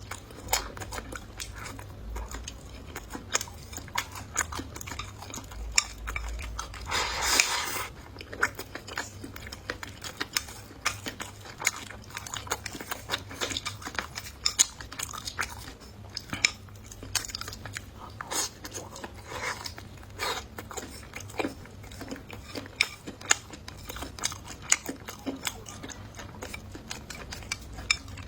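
Close-up eating sounds: chewing and biting, with frequent sharp clicks of cutlery against dishes. About seven seconds in there is a louder burst of noise lasting about a second.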